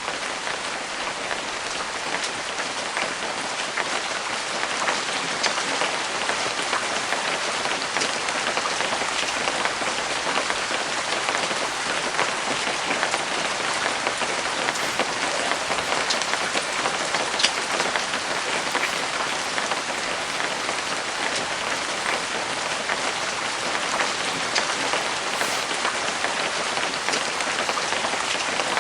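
Steady rain, a dense even hiss with scattered sharper drop ticks.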